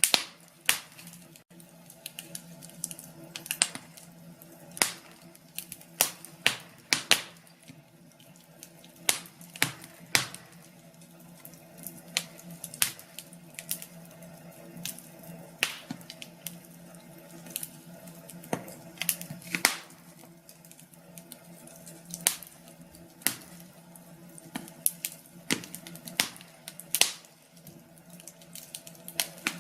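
Wood fire crackling in a fireplace: sharp, irregular pops and snaps, roughly one or two a second, over a faint steady hum.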